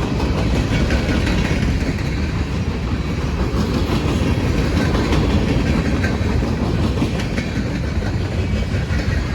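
Freight cars of a long mixed freight train rolling past: a steady rumble of steel wheels on rail with rhythmic clickety-clack over the joints.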